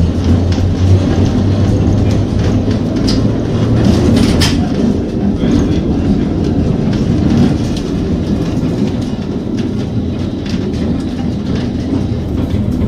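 Vintage tram running along its track: a steady rumble with scattered clicks from the wheels on the rails, and a deeper hum that fades about four seconds in.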